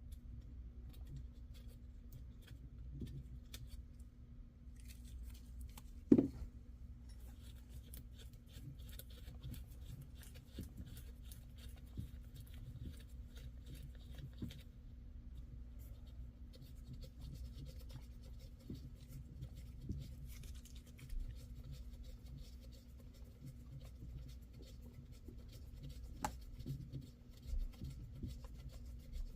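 Quiet hand work on engine parts: faint scraping, rubbing and light clicks of tools and metal parts being handled, with one sharp knock about six seconds in, over a faint steady hum.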